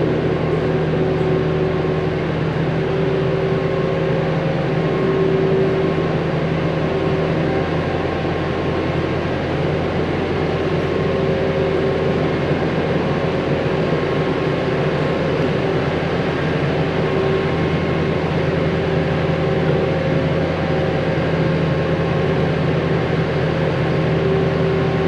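Diesel engine of a loader running at a steady speed, holding an even pitch throughout.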